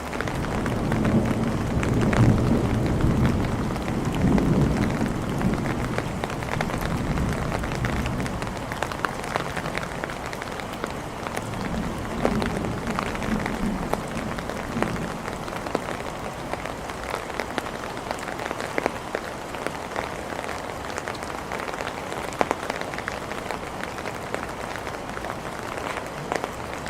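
Steady rain falling, with many small drops ticking on surfaces. Thunder rumbles low and rolling over the first several seconds, loudest about two and four seconds in, then again more softly a little before halfway.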